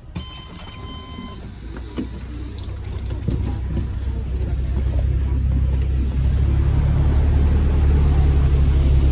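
A bus engine's low rumble, growing steadily louder. It opens with a short electronic chime from the bus, lasting about a second and a half.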